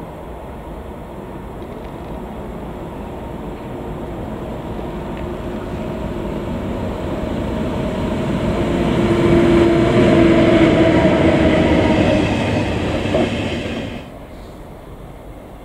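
Train running through the station, growing louder to a peak with a steady whine over the rumble, then dropping off suddenly near the end.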